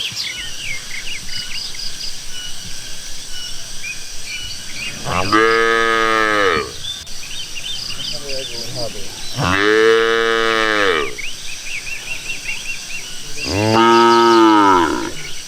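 Indonesian village cattle mooing: three long moos about four seconds apart, each rising and then falling in pitch. Steady high chirping runs beneath them.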